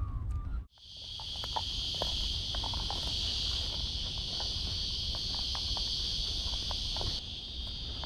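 Steady, high-pitched chorus of insects trilling in the mangroves, with faint scattered ticks beneath it. It follows a brief low rumble that cuts off under a second in.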